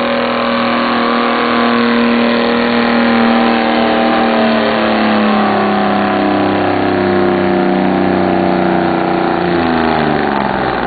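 Detroit Diesel 12V-71 two-stroke V12 running hard under load as the truck drags the pulling sled, its pitch slowly sagging as the sled bogs it down. The revs drop away sharply near the end as the pull finishes.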